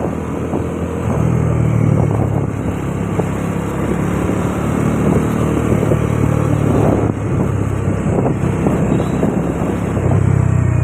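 Bajaj Dominar 400 motorcycle's single-cylinder engine running at a fairly steady engine speed.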